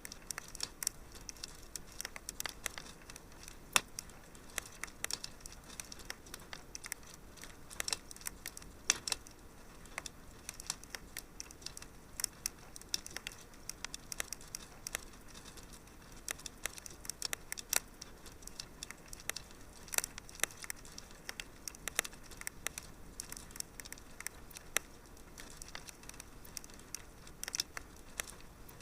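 Wood fire crackling in a fireplace: irregular sharp pops and snaps over a soft steady hiss, with a few louder pops.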